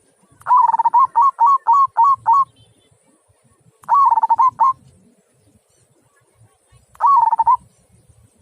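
Local zebra dove (perkutut) singing its cooing 'kung' song: a run of about seven quick coos, then two shorter bouts a few seconds apart.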